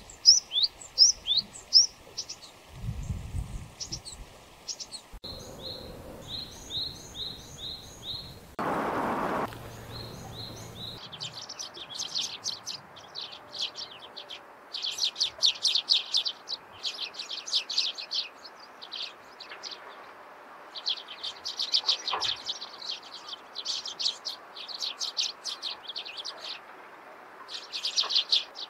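Small wild songbirds calling in several short recordings joined together: quick high chirps and evenly repeated notes, then from about eleven seconds dense runs of rapid chirping. A brief burst of noise about a second long near nine seconds.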